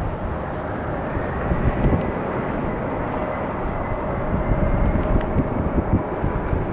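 Jet engines of an arriving Airbus A330-300, a steady whine over a broad rush of engine noise, with gusty wind rumbling on the microphone.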